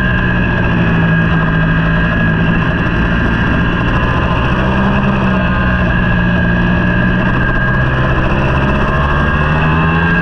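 Racing superbike engine running at steady high revs under a constant rush of noise, its pitch holding nearly level with only small dips and rises.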